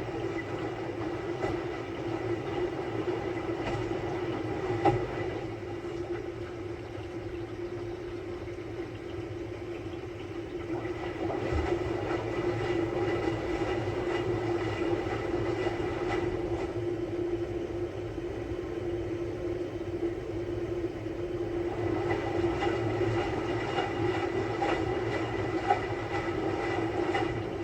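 Samsung Bespoke Grande front-loading washing machine running a quick-wash cycle: a steady motor hum with drum rumble that swells and eases every few seconds.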